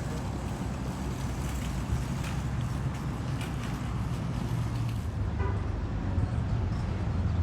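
A vehicle engine running steadily, a low hum under general background noise, growing louder in the last couple of seconds.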